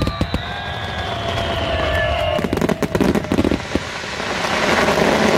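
Aerial fireworks heard close to the launch site: sharp bangs of shells bursting and launching, a long whistle sliding slowly down in pitch over the first couple of seconds, and dense crackling building up near the end.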